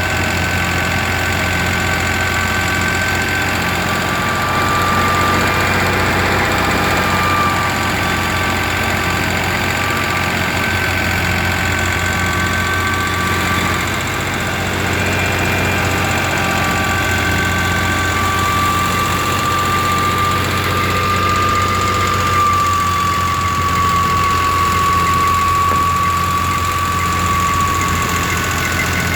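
Fiat 480 tractor's diesel engine running steadily under load while driving a wheat thresher, with a constant high whine over the engine note.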